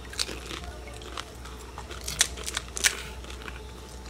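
Crisp puchka (pani puri) shells crunching and crackling in sharp bursts as they are bitten and chewed.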